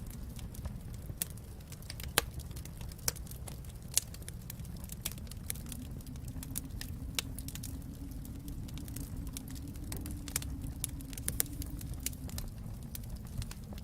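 Wood fire crackling in a fireplace: irregular sharp pops and snaps, the loudest about two and four seconds in, over a steady low rumble.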